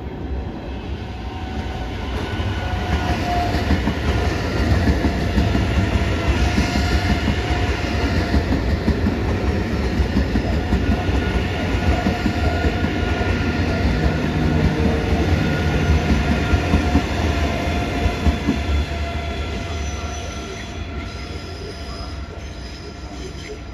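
ICE 3 high-speed electric train running past a station platform: a steady rumble of wheels on rail, with a steady whine above it. It fades after about twenty seconds as the train moves away.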